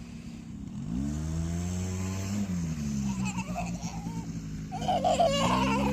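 Small vehicle engine revving up: the pitch climbs about a second in, holds, eases off briefly, then rises again near the end.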